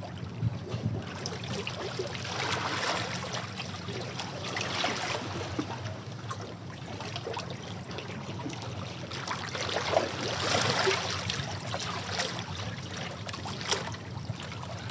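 Sea waves washing against rocks, a continuous surf swelling and easing every few seconds, with small splashes and trickles of water running off the rocks.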